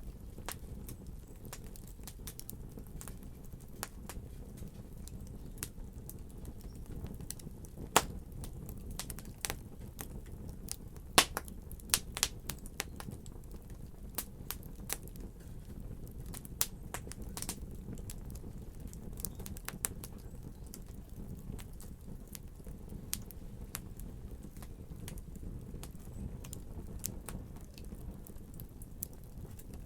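Fireplace fire crackling: a steady low rumble of flames under scattered sharp pops, with a run of louder pops about a third of the way through.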